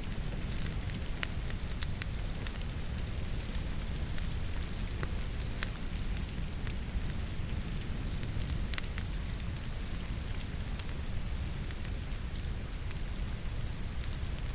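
Wood fire burning in a fireplace, crackling with scattered sharp pops, over a steady patter of rain.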